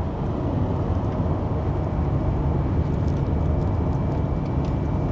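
Mitsubishi Zinger running with a steady low rumble, and a thin steady high-pitched whine over it: the abnormal noise that the owner likens to an electrical current hum.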